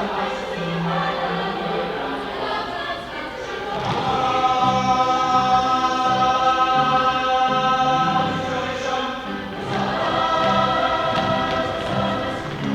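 A stage ensemble of many voices singing a musical-theatre number over instrumental accompaniment, holding one long loud chord in the middle before the phrase moves on.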